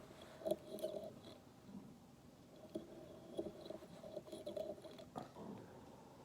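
Faint, irregular small clicks and rustles of hands working tying thread and tools at a fly-tying vise while tying off half hitches.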